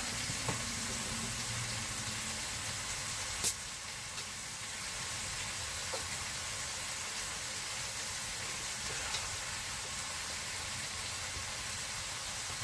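Food that went on frozen sizzling steadily as it fries, with one sharp pop about three and a half seconds in and a couple of faint ticks later.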